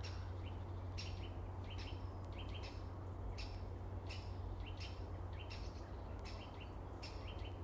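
A woodpecker calling: a string of short, sharp chip notes, roughly one every half to three-quarters of a second, over a steady low rumble.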